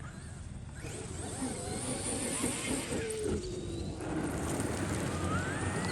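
Traxxas XRT electric RC monster truck being driven, its brushless motor whining and changing pitch with the throttle over a steady hiss.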